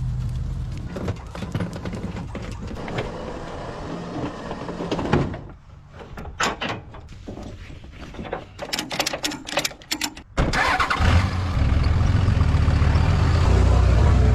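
1955 Willys station wagon engine: a low rumble, then a few seconds of clicks and knocks, then the engine running loud and steady from about ten and a half seconds in.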